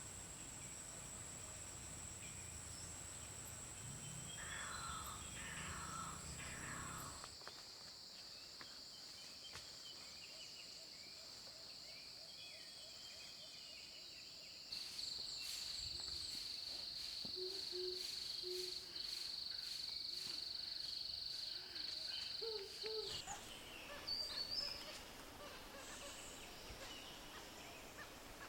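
Forest field recording: a steady high-pitched insect drone under scattered short bird calls. The calls are a Philippine pied-fantail's in the first few seconds, then a Balicassiao's, with the drone changing pitch as one recording gives way to the next.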